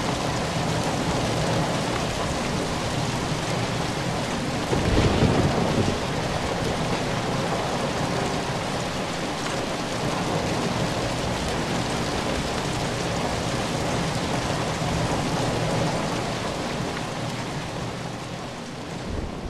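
Steady heavy rain, with a short louder rumble about five seconds in. The rain slowly fades out near the end.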